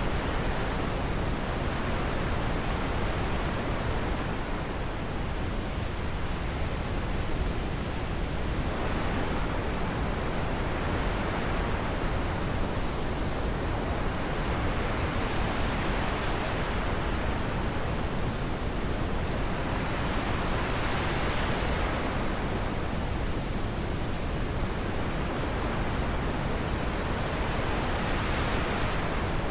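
Wind blowing steadily, a continuous rushing that swells and eases in slow gusts every few seconds.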